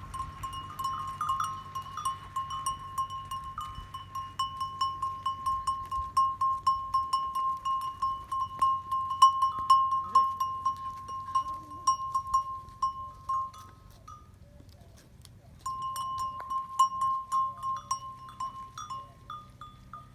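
Neck bells on a flock of sheep and goats clinking and ringing continuously as the animals move. The bells stop for a moment about two-thirds of the way through, then start again.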